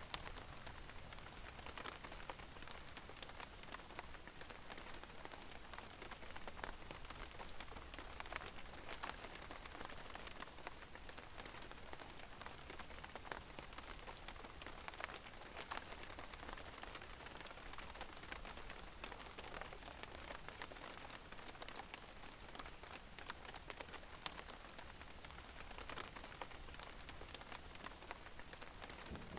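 Steady rain, a fine even hiss with many separate drops ticking sharply on a surface.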